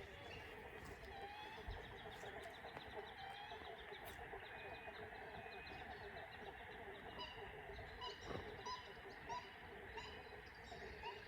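Several wild birds calling and chirping together: rapid runs of high chirps and short rising whistles over a steady background chorus.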